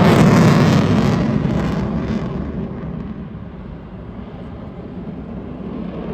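Military jet aircraft flying past: a loud roar that fades away over the first three seconds or so, leaving a lower steady rumble.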